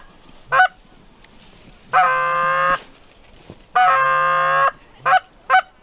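Goose honks: a short note, two long drawn-out honks, then three quick short clucks near the end.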